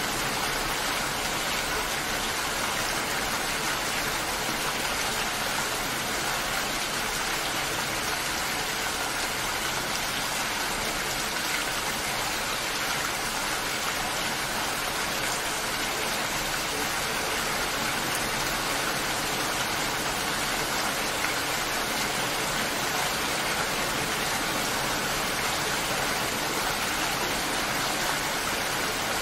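Steady rainfall: an even, unbroken hiss that holds the same level throughout.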